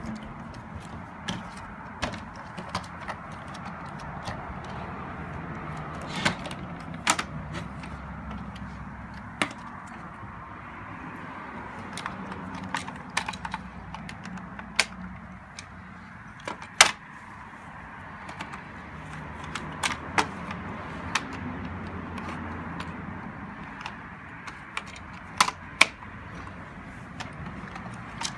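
Irregular clicks, knocks and light rattles of plastic robot-vacuum parts being handled, over a steady low hum.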